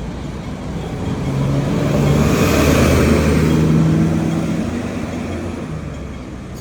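A motor vehicle passing by, its engine and tyre noise swelling to a peak midway and then fading away.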